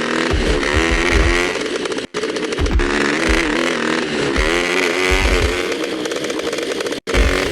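Motorcycle engine revving up and down, its pitch wavering, cut off abruptly twice, about two seconds in and near the end.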